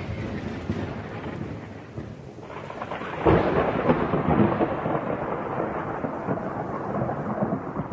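Thunder rumbling after a lightning strike, slowly fading, with a fresh louder peal rolling in about three seconds in.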